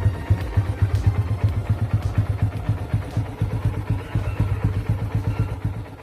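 Honda CB110's single-cylinder engine running, a rapid low pulsing that dies away steadily toward the end.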